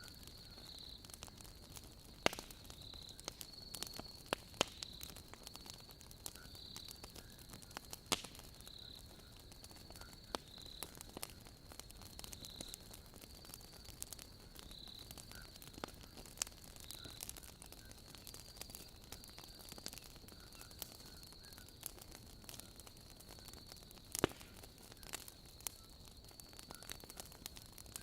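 Wood logs burning in a fireplace, crackling with irregular small pops and a few louder snaps, the loudest about two, eight and twenty-four seconds in. Behind it runs a steady high-pitched chirping of crickets.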